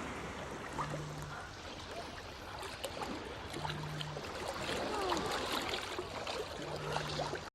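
Sea water lapping and splashing at the shore in a steady wash, with small splashy clicks. A short low hum repeats about every three seconds, and the sound cuts off abruptly at the end.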